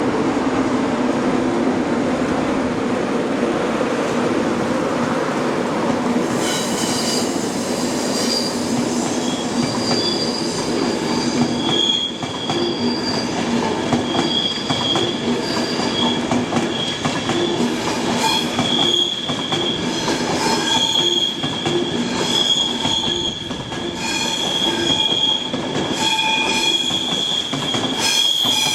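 A train running past on the rails with a steady rumble. From about six seconds in, its wheels squeal in high, piercing tones that come and go.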